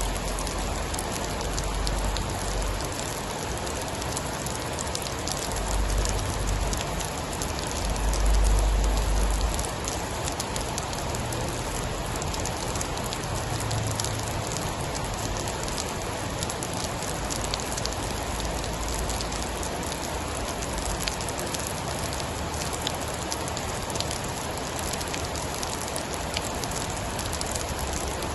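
Steady heavy rainfall, dotted with many small sharp ticks of drops. A low rumble swells several times in the first ten seconds, loudest about eight to nine seconds in.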